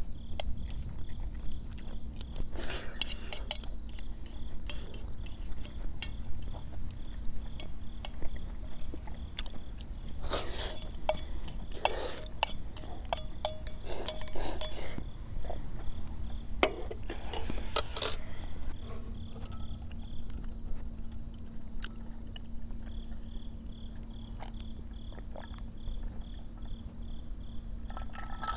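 Autumn crickets calling steadily in a high, even trill with a pulsing chirp beneath it, while scattered light clinks and knocks of tableware come and go, most of them in the middle of the stretch.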